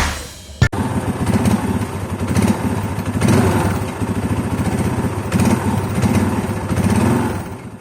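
Yamaha Scorpio's single-cylinder four-stroke engine running through an aftermarket full-system exhaust, idling with several quick blips of the throttle. A sharp click comes just before the engine is heard, and the sound fades out near the end.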